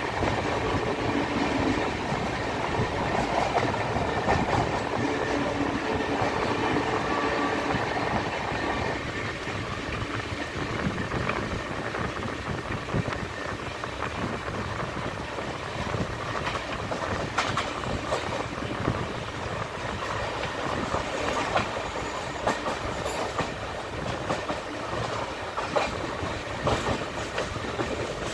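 Passenger train running at speed, heard from an open coach door: a steady rumble and rush of wheels on rails, with clicks and clatter as the wheels cross rail joints and points, more frequent in the second half.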